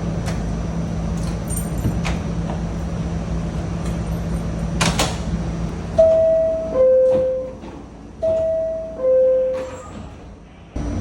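NYC subway train standing with its steady hum, then the two-note descending door-closing chime, a higher 'ding' then a lower 'dong', sounds twice, signalling that the doors are about to close. Just before the end a loud rush of noise with hiss begins.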